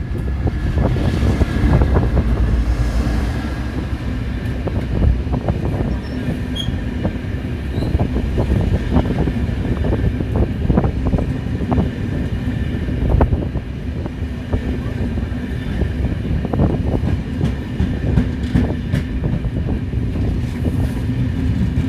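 Train running along the track, a heavy steady rumble with wheels clacking irregularly over rail joints.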